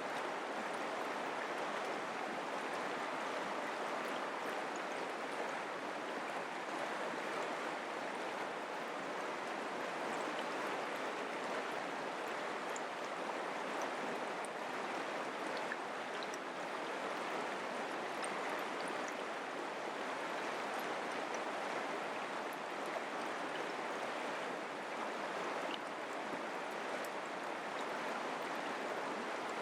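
Mountain creek flowing: a steady, even rush of running water.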